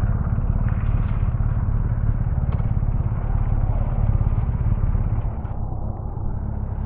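Motorcycle engine idling with a steady low, evenly pulsing rumble.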